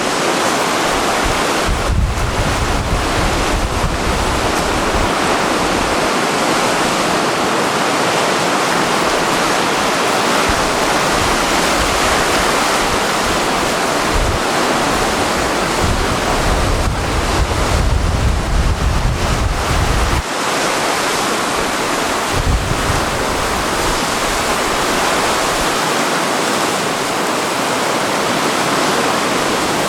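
Sea surf rushing and breaking without a pause, on a rough sea ahead of a typhoon. Gusts of wind buffet the microphone now and then.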